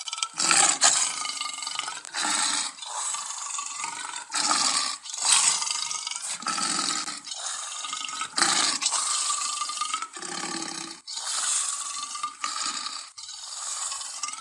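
A run of about a dozen short, harsh big-cat snarls and growls, each roughly a second long with brief breaks between them: lion, tiger and leopard recordings edited together as the voice of a saber-toothed cat.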